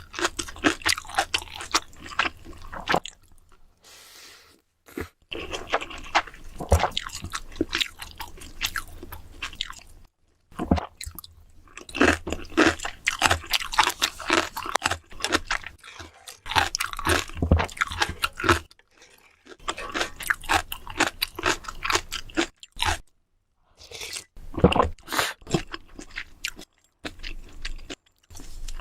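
Close-miked chewing and crunching of food, in several spells of rapid crisp bites with short pauses between them.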